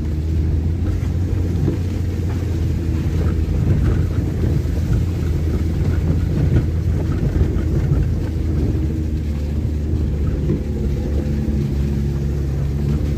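Front-wheel-drive car's engine running steadily under load, heard from inside the cabin as the heavily laden car drives up a wet dirt track.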